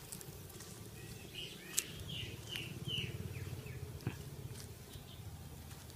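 A bird calling: a run of about six short, falling chirps, starting about a second and a half in and ending past the three-second mark. Beneath it runs a low steady rumble, with a couple of sharp clicks.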